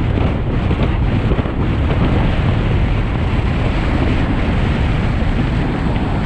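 Rushing wind buffeting the microphone of a camera on a road bike at descending speed, a steady loud roar.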